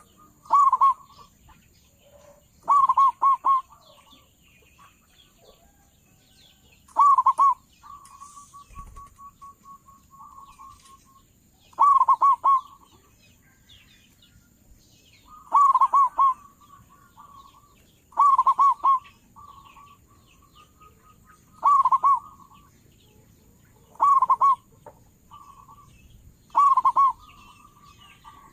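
Zebra dove singing: about nine loud, short cooing phrases, each a quick roll of notes, spaced a few seconds apart, with softer runs of rapid beaded notes between them. Other birds chirp faintly in the background.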